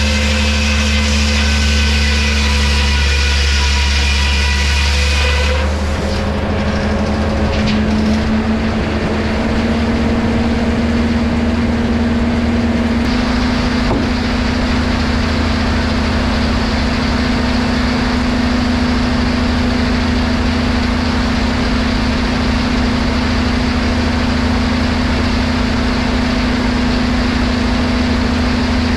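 Engine running steadily, driving machinery. A higher whine over it stops about six seconds in, leaving an even drone whose pitch rises slightly near thirteen seconds.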